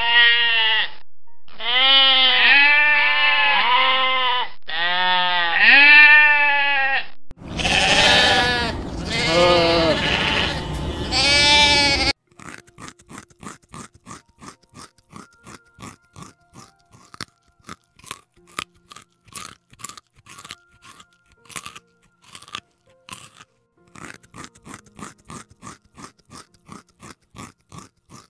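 Sheep bleating, call after call, for about the first twelve seconds, the last calls louder and overlapping. Then a rabbit chewing a carrot: rapid, steady crunching.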